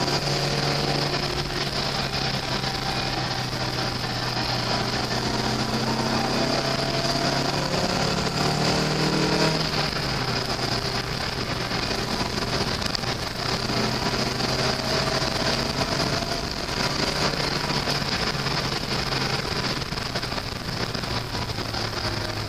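Lotus Elise sports car engine running under way, heard from inside the car over steady wind and road noise. Its note climbs about eight seconds in and drops away sharply about two seconds later.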